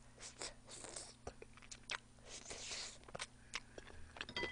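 Close-miked chewing of fried chicken wings: soft, irregular crunches and small clicks as the crispy coating is bitten and chewed.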